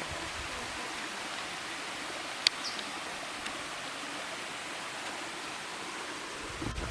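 Waterfall pouring into its plunge pool: a steady, even rush of falling water. A single sharp click stands out about two and a half seconds in.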